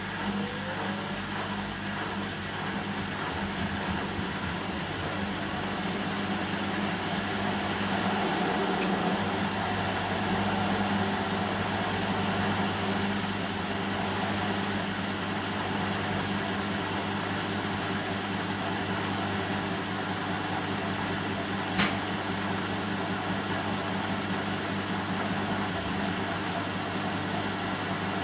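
Bosch WAN28220FF washing machine running a synthetics 40 °C cycle: a steady motor hum that swells slightly for a few seconds partway through, with one short click about three-quarters of the way in.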